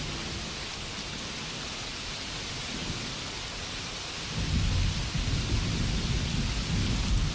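Steady rainfall, with a low rumble of thunder rolling in about four seconds in and continuing.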